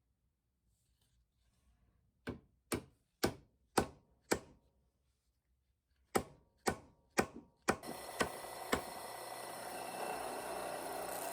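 Sharp hammer strikes setting a sledgehammer head tight on its wooden handle: five blows at about two a second, a short pause, then four more. A steady hiss comes in near the end with two lighter taps over it.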